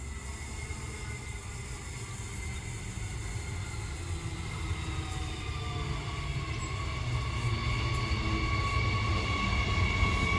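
Electric passenger train approaching, its running noise growing steadily louder, with a high whine of several steady tones that strengthens in the second half.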